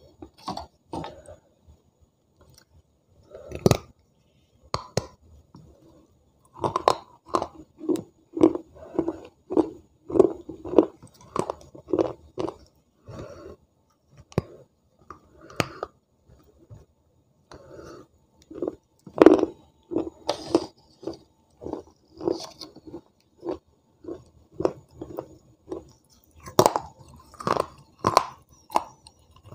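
Soaked pieces of clay pot being bitten and chewed right at the microphone: a few sharp crunching bites, each followed by a run of steady, wet chewing at about two chews a second.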